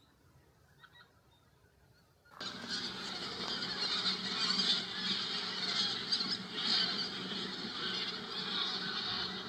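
A large flock of wild geese honking, many calls overlapping into a dense clamour. It cuts in suddenly about two seconds in, after near quiet.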